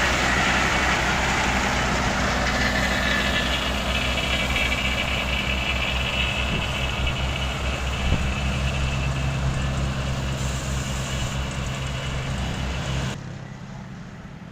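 Heavy diesel engine of road-construction machinery running steadily, with a noisy mechanical clatter over a low engine drone. Near the end the sound drops suddenly to a much quieter engine hum.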